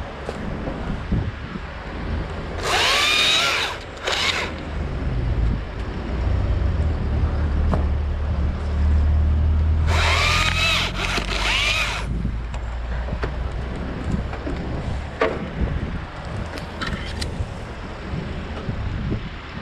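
Battery top-handle chainsaw revving in short bursts, its motor whine rising and falling: two bursts about three seconds in and a longer run of three about ten seconds in. A low rumble and wind noise run underneath.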